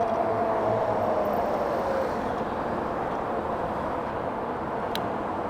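Riding noise from an electric bike: a steady rush of wind and tyres, with the motor's whine falling in pitch over the first couple of seconds as the bike slows. There is a single sharp click near the end.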